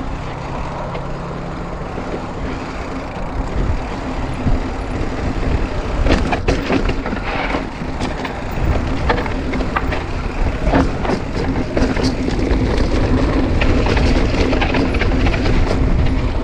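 Mountain bike riding over a rough dirt trail: wind rumble on the microphone and tyre noise, with frequent clacks and rattles from the bike that get busier after about six seconds.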